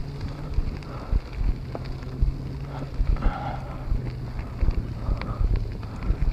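Wind buffeting the microphone of a bicycle-mounted camera while riding, over a steady low hum, with frequent short clicks and rattles.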